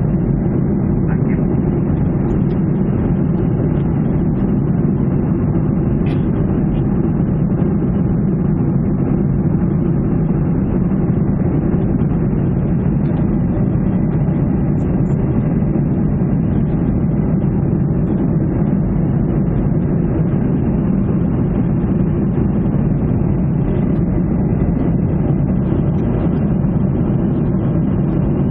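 Steady drone of jet engines and rushing air heard inside the cabin of a Ryanair airliner in flight, loud and unchanging, deep and low in pitch.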